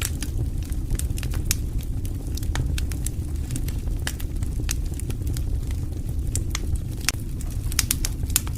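Fire in a fireplace crackling: irregular sharp pops and snaps over a steady low rumble of the burning fire.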